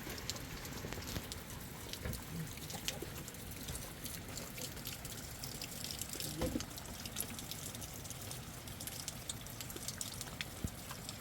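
Rain falling, with water dripping: a steady wash of noise broken by many irregular drop ticks.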